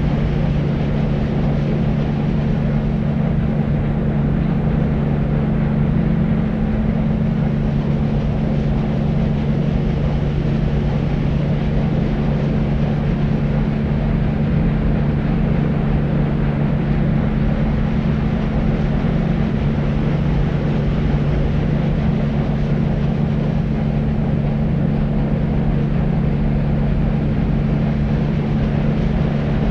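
Deep white noise for sleep: a steady, unbroken rumbling hiss weighted to the low end, with a steady low hum running through it.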